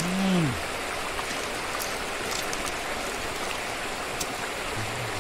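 Steady rush of flowing stream water. A short vocal sound with falling pitch comes right at the start.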